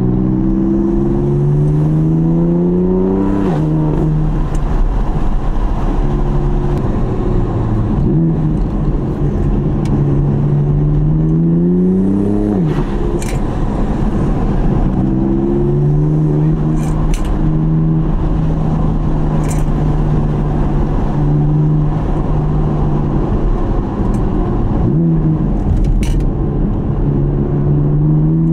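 BMW F80 M3's S55 twin-turbo straight-six heard from inside the cabin under hard driving: the engine note climbs as it pulls through the revs and drops sharply at each upshift, about three times, with steadier stretches between. A few short sharp clicks sound over it.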